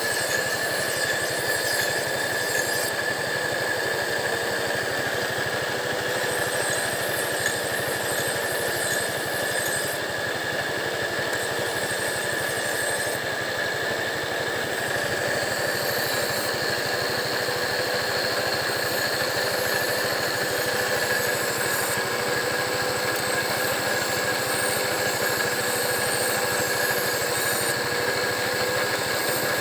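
70cc motorcycle engine running steadily, driving a knife-sharpening grinding wheel, with a steady high whine over it.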